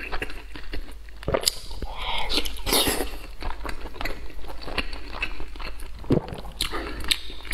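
Close-miked chewing and wet mouth smacking as a man eats braised pork belly, an irregular run of short smacks and clicks.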